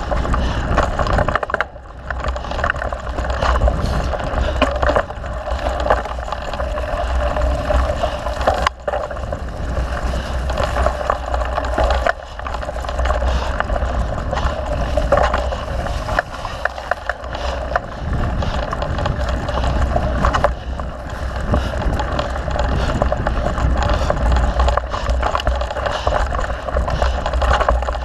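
Mountain bike riding over a trail: a steady rumble of wind on the microphone under constant rattling and clatter from the tyres and bike.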